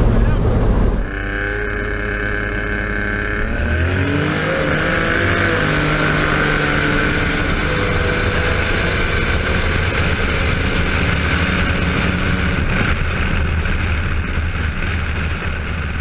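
Turbocharged street-race car engines running hard: a loud burst that drops off about a second in, then a steady engine note that climbs in pitch around four seconds in and settles into a sustained drone.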